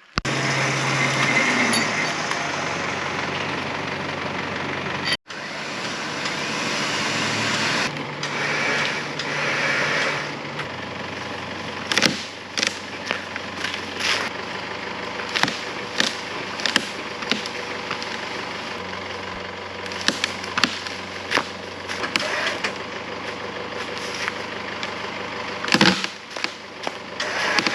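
4WD vehicle winch hauling a fallen log off the track, the winch motor whining over the vehicle's engine idling. From about halfway a string of sharp cracks and knocks sounds as the log is dragged.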